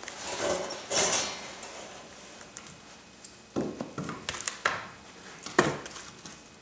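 Split firewood being handled: a scraping rustle, then several hard wooden knocks and clacks as pieces are set down and knocked against one another, the loudest a little before the end.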